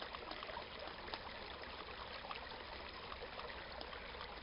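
Small brook trickling and burbling steadily over stones, with many small droplet-like splashes.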